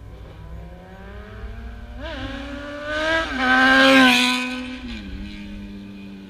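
A motorcycle engine runs with a steady note and is revved in short blips about two and three seconds in. It is held higher and loudest around four seconds, then falls back to a lower steady note about five seconds in.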